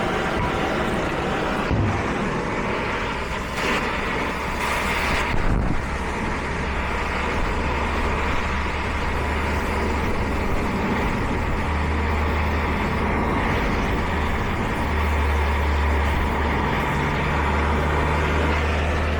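A hand torch's flame burning with a steady rushing noise while it heats an old differential bearing that is being removed.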